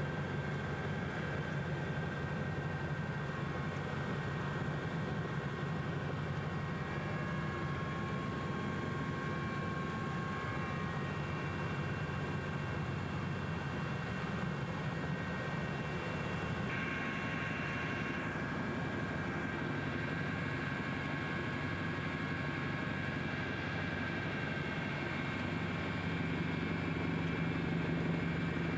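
Helicopter running steadily, a continuous drone with several steady tones; the pitch of the higher tones shifts slightly about two thirds of the way through.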